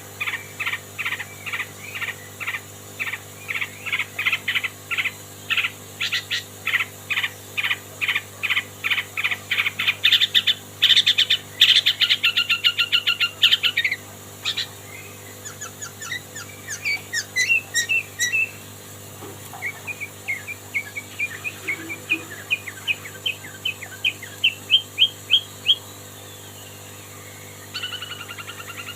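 Long-tailed shrike (cendet) singing a mimicked song of kapas tembak and lovebird: long runs of sharp chirps repeated several times a second, a faster, brighter trill partway through, then a break into scattered notes and a series of rising notes.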